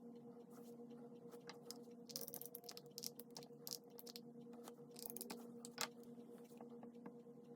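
Pen writing on paper: faint scratching strokes and small taps in clusters through the middle, over a steady low hum.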